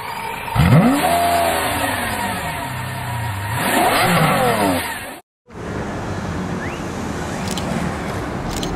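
A sports car engine revs sharply about half a second in, falls away, then revs up again around four seconds and drops off before cutting out abruptly. After a short gap comes a steady low engine and road rumble as the Ferrari 458 Italia rolls slowly up.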